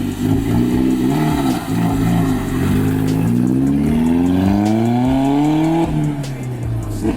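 VW Up's swapped-in 1.8-litre turbo GTI engine under acceleration. The revs rise and dip over the first few seconds, then climb steadily for about three seconds, drop sharply about six seconds in, and start climbing again.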